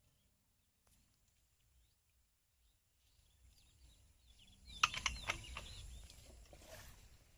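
Near silence at first, then faint outdoor birdsong with short chirps, and a quick run of clicks and knocks about five seconds in.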